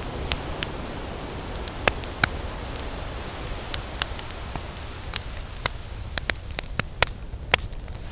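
Wood campfire crackling, with sharp irregular pops over a steady low rush.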